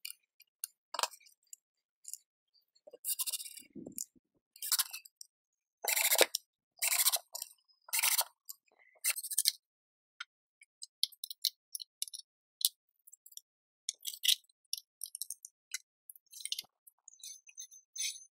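Workshop handling noises: scattered clicks and clinks, with a run of short scraping or rasping strokes about once a second in the middle.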